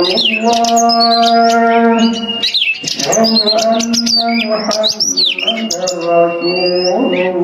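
Oriental magpie-robin (kacer) singing a fast, varied run of sweet whistles, rising and falling chirps and harsh clicking notes, over a steady droning tone with many overtones.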